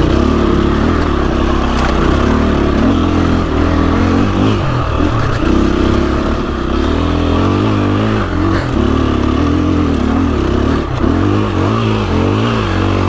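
350cc four-stroke dirt bike engine under way, its pitch rising and falling again and again as the throttle is worked, with some clatter from the bike over the rough trail.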